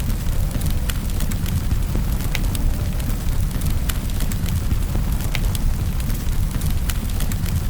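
Wood fire in a fireplace crackling, with frequent sharp pops over a steady low rumble, blended with steady rain.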